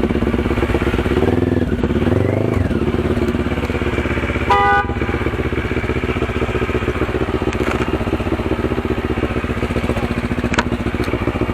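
Motorcycle engine idling steadily, with a short horn beep about four and a half seconds in.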